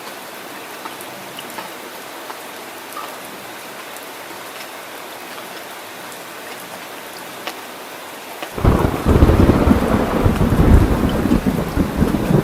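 Heavy rain falling steadily, then about two-thirds of the way through a loud, deep rumble of thunder breaks in suddenly and keeps rolling under the rain.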